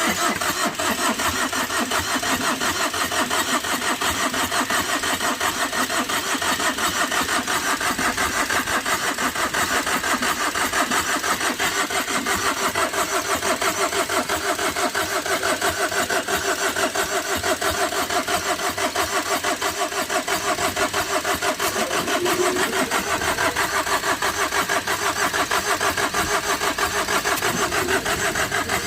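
Tata Vista's petrol engine cranking on its starter motor for a long stretch without catching, a steady rhythmic churn. The owner suspects a blown head gasket: the engine is low on compression, with gas escaping through the cooling system after it overheated.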